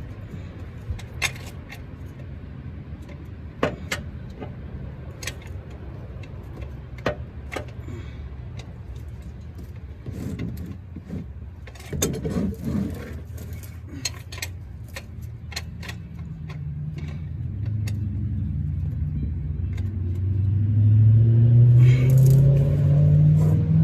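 Scattered light metallic clinks of hand tools over a steady low rumble. In the last third, a motor vehicle's engine grows louder and rises in pitch, becoming the loudest sound.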